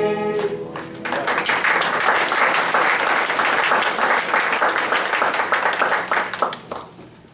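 A choir's last held chord breaks off, then an audience claps, starting about a second in and dying away near the end.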